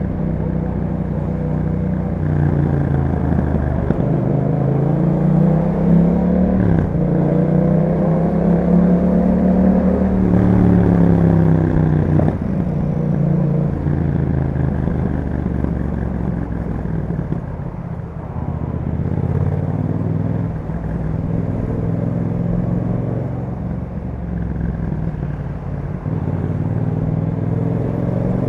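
A 2021 Yamaha MT-07's 689 cc parallel-twin engine running through an Akrapovic exhaust with a dB killer, heard while riding. The revs climb with a brief break near seven seconds, peak around ten seconds, then drop back and settle into a steadier cruising note.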